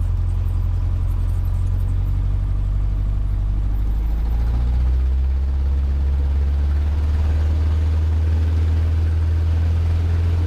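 Cessna 150's four-cylinder piston engine and propeller droning steadily under power shortly after takeoff, the drone shifting slightly in pitch about four to five seconds in.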